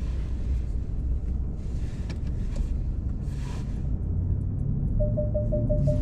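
Pickup truck engine running with a low rumble, heard from inside the cab. About five seconds in, a warning chime starts beeping rapidly, around five short identical beeps a second.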